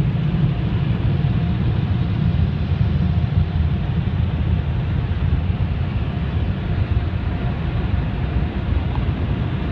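Steady low rumble of touchless car wash machinery, heard from inside the car, with a faint steady hum above it.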